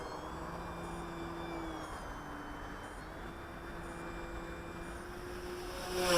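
Electric motor and propeller of a Crack Pitts RC aerobatic model plane humming faintly in flight, its pitch drifting slowly, over a steady outdoor hiss. Right at the end the sound swells sharply louder.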